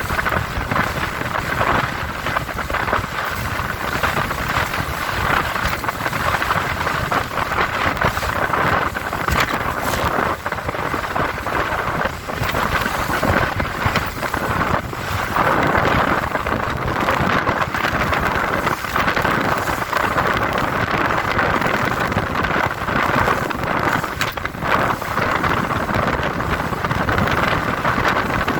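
Powerboat running fast through rough chop: steady wind buffeting on the microphone over the engine and the rush of water along the hull.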